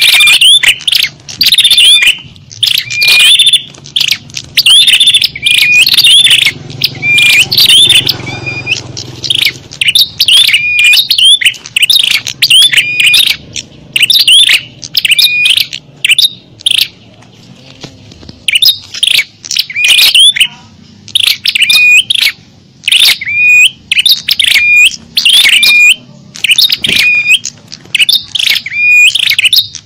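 Small-bird lure call (suara pikat): loud, high chirping notes in quick clusters, repeating about three times every two seconds. There are short lulls about a third of the way in and again just past the middle.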